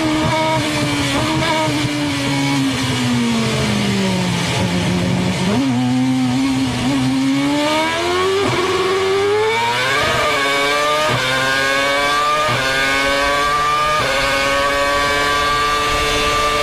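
Formula One car engine in a wet race: the pitch falls steadily as the car slows for a corner, then climbs again through about five quick upshifts and holds high at speed near the end.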